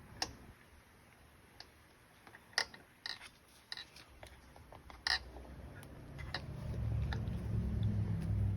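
Sharp metallic clicks and taps from parts and tools being handled while fitting connecting rods during an engine rebuild. A low, steady hum swells in about two-thirds of the way through and becomes the loudest sound.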